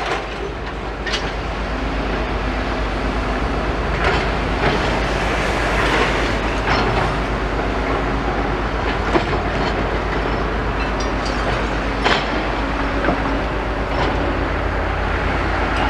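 Demolition machinery at work: diesel excavator engines running steadily, with scattered clanks and knocks of metal debris being picked up by a grab.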